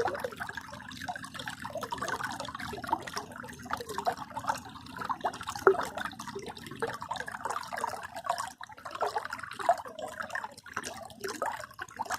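Water running and gurgling in a small river near its source, with a constant busy bubbling.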